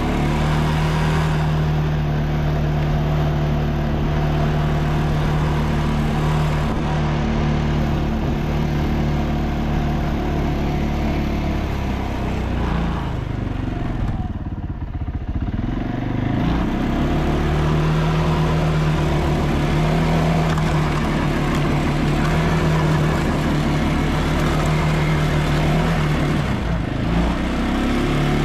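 ATV engine running at a steady throttle. The revs drop about halfway through and climb again a couple of seconds later, with another short dip near the end.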